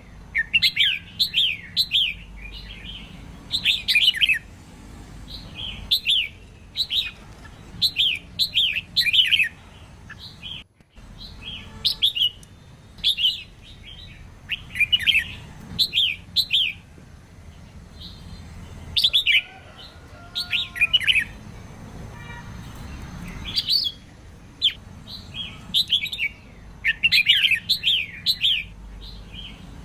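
Female red-whiskered bulbul singing: short bright phrases of quick falling notes, repeated every second or two. This is a lure song meant to rouse male bulbuls into singing.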